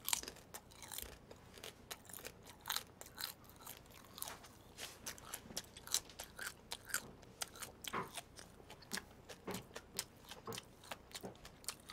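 Crunchy chewing of a deep-fried shrimp head: many irregular, crisp crunches.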